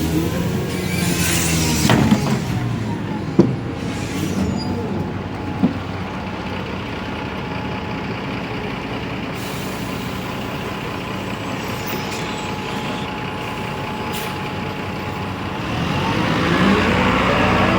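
Rear-mounted Mercedes-Benz OM906LA six-cylinder diesel of a city bus slowing to idle with a hiss of air from the air brakes near the start, then idling steadily. Two sharp clicks are heard a few seconds in, and near the end the engine pitch rises as it accelerates away through the ZF Ecomat automatic gearbox.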